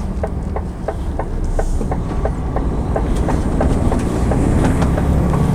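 Heavy lorry driving, heard from inside the cab: a loud low engine and road rumble with a steady rapid ticking of about four clicks a second over it.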